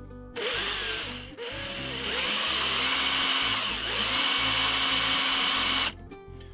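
Power drill boring a small hole in metal, running steadily for about five and a half seconds with a brief let-up about a second in.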